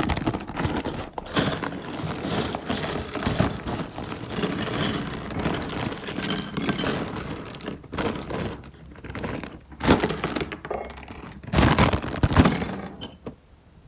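Small plastic LEGO pieces clattering and clicking as they are handled, with louder clatters about ten and twelve seconds in.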